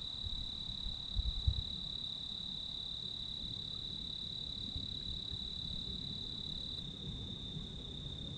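Steady high-pitched buzz of desert insects, with a few low thumps about a second in.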